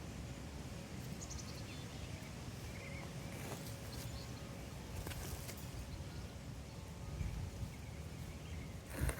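Wind buffeting the microphone as a steady low rumble, with a few faint rustles and a sharper thump about nine seconds in.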